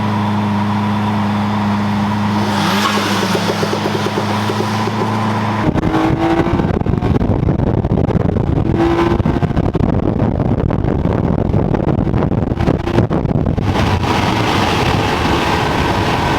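A car's engine and exhaust droning steadily, then about five and a half seconds in it opens up hard under acceleration. It stays loud and crackling for about eight seconds before settling back to a smoother drone.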